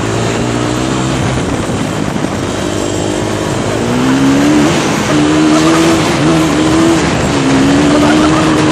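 Dirt bike engine running under throttle. Its pitch climbs about four seconds in, then drops and climbs again several times, as with revving through gear changes.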